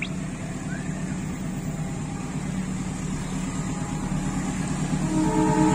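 Approaching Kutojaya Selatan train: a steady low diesel locomotive drone that grows slowly louder, with the locomotive's multi-tone horn starting about five seconds in.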